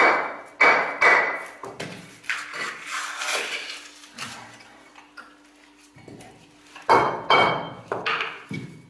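Sharp knocks and clinks of bricks and a hammer being handled, some with a brief metallic ring, in bunches at the start and again near the end.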